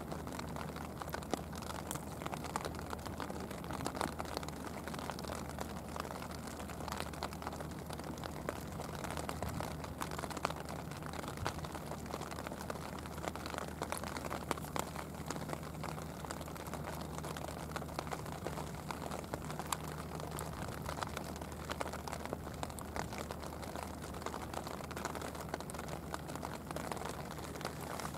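Light rain pattering on the sea surface, a constant scatter of small drop ticks over a steady low hum.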